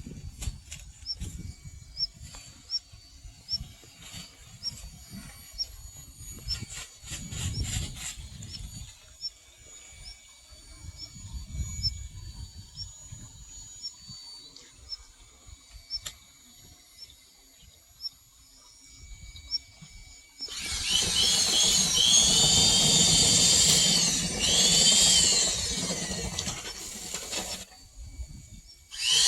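Scattered low knocks and handling thumps. About two-thirds of the way through, a power drill runs loudly for several seconds, its whine rising and falling as it speeds up and slows, then stops.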